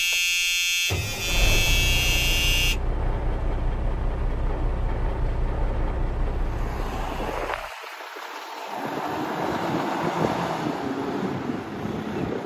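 A truck's air horn sounds for nearly three seconds over a heavy diesel engine running. The engine carries on after the horn stops, and near the end the engine gives way to a steady rush of wind noise.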